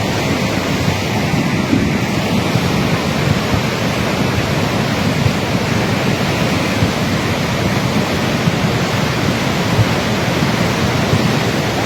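Floodwater rushing, a loud steady wash of noise with no breaks.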